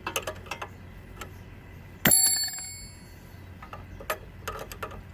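Metal hand tools clinking and clicking, with one sharp clang about two seconds in that rings for about a second like struck steel.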